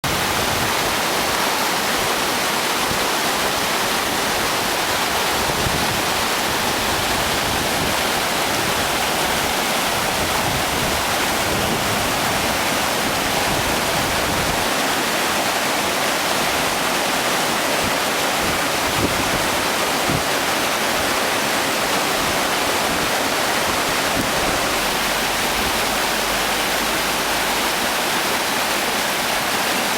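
Mountain stream rushing, a steady even flow of water noise without a break.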